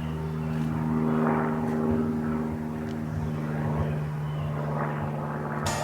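Electronic drum and bass intro: a sustained low synth drone with swelling, whooshing filtered noise, then the beat's hi-hats cut in sharply just before the end.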